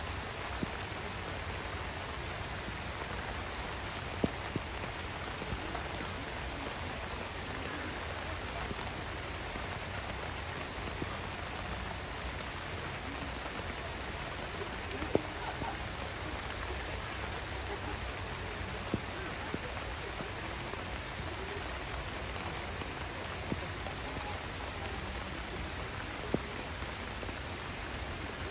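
Heavy downpour: a steady hiss of rain, with scattered sharp taps of single drops landing close by.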